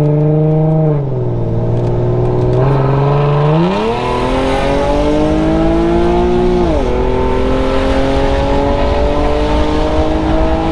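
Infiniti G37x's 3.7-litre V6 with its muffler and resonator deleted, heard from inside the cabin under hard acceleration. The exhaust note holds steady, eases off about a second in, climbs steeply from about four seconds in, drops sharply at an upshift near seven seconds, then climbs again.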